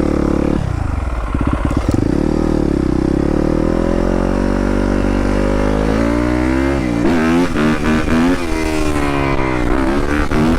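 Dirt bike engine under way, accelerating. It drops back briefly about half a second in, pulls up slowly and holds steady, then in the second half revs up and down in quick throttle blips.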